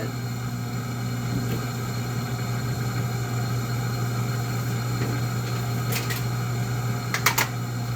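A steady low mechanical hum, with a few short clicks near the end.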